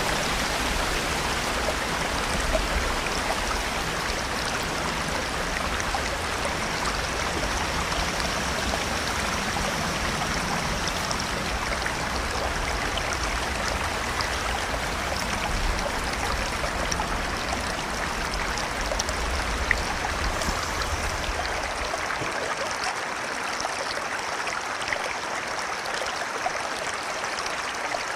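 River water flowing steadily, an even rushing sound. A low rumble underneath it drops away about three-quarters of the way through.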